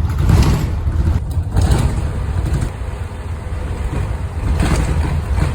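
Motor vehicle noise: a steady low engine and road rumble with a few swells.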